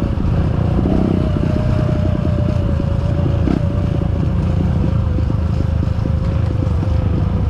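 Trail motorcycle engine running at a steady speed, with a thin whine over it that slowly falls in pitch.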